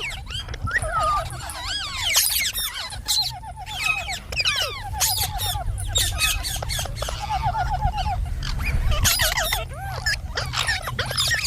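Indian ringneck parrot calling and chattering: quick rising and falling whistled notes and a repeated warbling trill, over a steady low hum.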